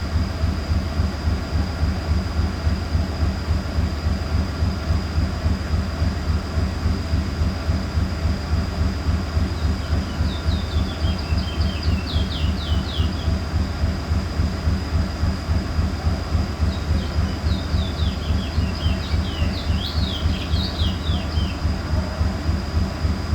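A small bird singing two bursts of quick chirped notes, the second longer, over a loud, steady low mechanical rumble that pulses about four times a second.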